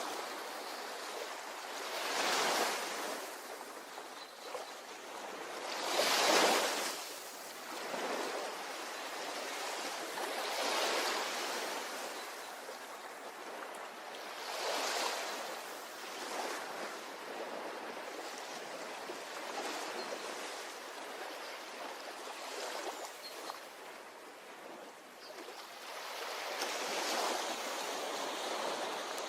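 Ocean waves breaking on a shore, each surge swelling and washing back every four to five seconds, with a few louder breakers among them.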